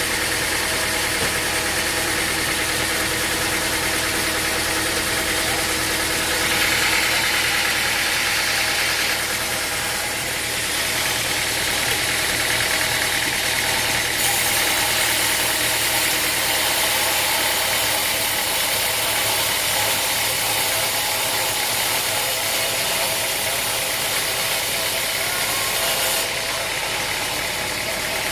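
Sawmill machinery running steadily: an engine drone under a high hiss that grows louder for a few seconds about a quarter of the way in, and again from about halfway until near the end.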